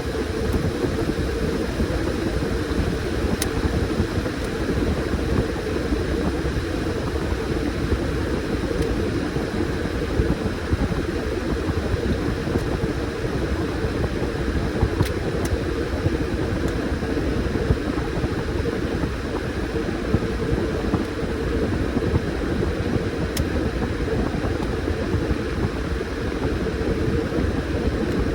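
Washing machine running with a load of towels, a steady motor-and-drum noise with no change in pace and a few faint ticks.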